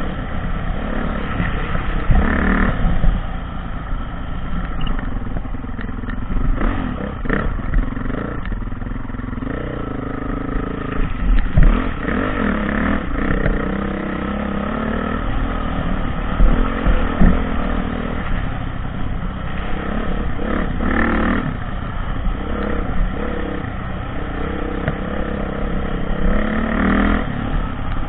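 Off-road dirt bike engine running and revving, its pitch rising and falling with the throttle, with a few sharp knocks along the way.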